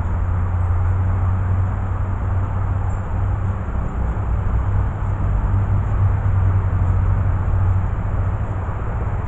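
A steady, unchanging low mechanical rumble with a constant hiss over it and a faint high whine.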